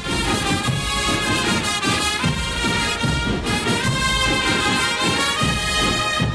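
Brass band playing a slow processional march in sustained brass chords.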